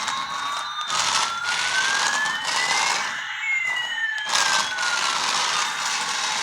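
Electronic siren-like tones: one slowly rising and one slowly falling, crossing midway, over a pulsing hiss.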